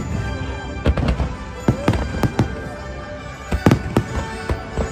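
Aerial fireworks shells bursting in a rapid, irregular series of sharp bangs, several coming in quick clusters, over the show's music playing from loudspeakers.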